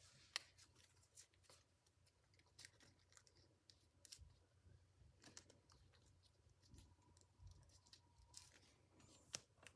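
Sheets of paper being folded and creased by hand: faint crinkles and short crackling ticks scattered throughout, with a slightly sharper tick near the start and another near the end.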